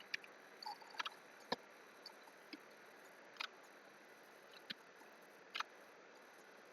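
Faint, scattered sharp clicks, about one a second and irregular, from computer input while working at a computer, over a low steady room hiss.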